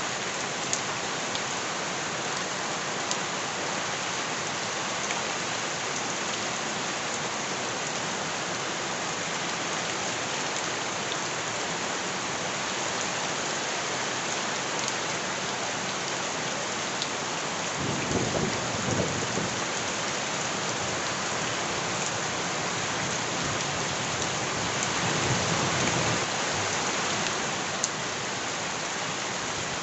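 Steady heavy rain, with scattered drops ticking sharply. A low rumble of thunder comes about two-thirds of the way through, and another swells up near the end.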